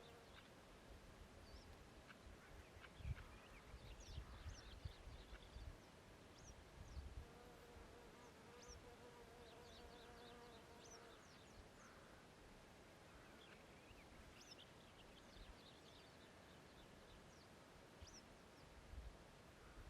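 Faint meadow ambience: scattered short, high bird chirps and a flying insect buzzing steadily for a few seconds in the middle, with occasional low rumbles.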